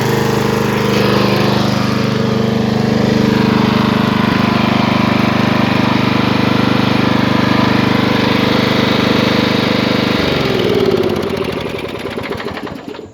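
Craftsman LT1000 lawn tractor's 18 hp Briggs & Stratton engine running steadily, then shut off about ten seconds in and winding down to a stop.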